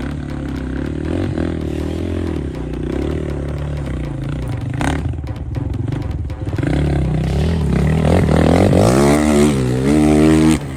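Enduro motorcycle engine running under load, with some clattering. Near the end it revs up and down repeatedly and gets louder as the bike climbs, then cuts off suddenly.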